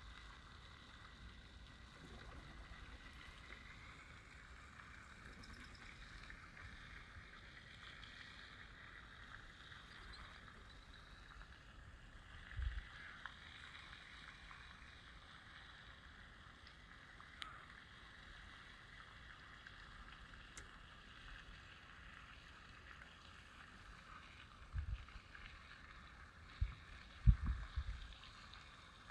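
Faint, steady outdoor ambience, an even hiss with no clear pitched sound. There are a few brief low thuds: one near the middle and a cluster near the end, the last of them the loudest.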